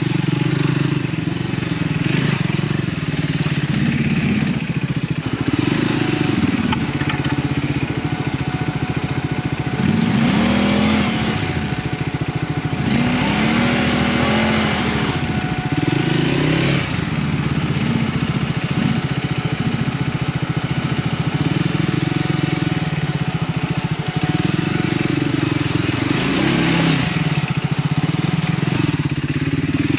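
Triumph Scrambler 400 X's single-cylinder engine on an off-road ride, its revs rising and falling continually as the throttle is opened and closed. There are several strong rev swells, about a third of the way in, around halfway and near the end.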